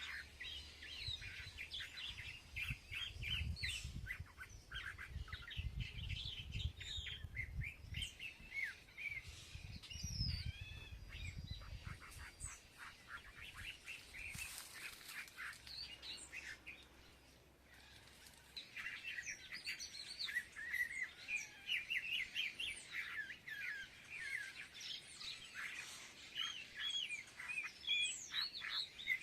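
Many small birds chirping and twittering in a busy, overlapping chorus while feeding, with a short lull a little past the middle.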